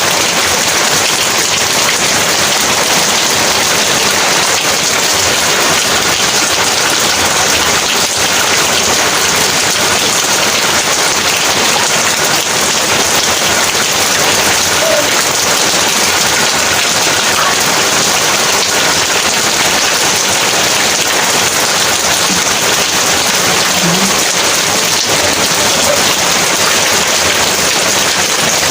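Heavy rain falling and pattering steadily on surfaces, a dense even hiss with no thunder.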